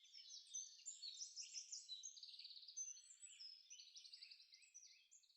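Faint chorus of several small birds chirping and singing together, with rapid repeated trills and short sliding notes overlapping throughout, fading toward the end.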